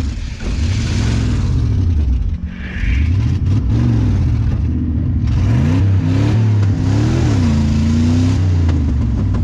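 Truck engine revving hard, its pitch rising and falling over and over.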